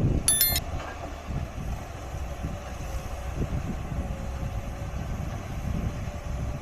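Tata Hitachi 200LC excavator's diesel engine running with a steady low rumble, a little louder in the first second. About half a second in there is a brief high-pitched squeak.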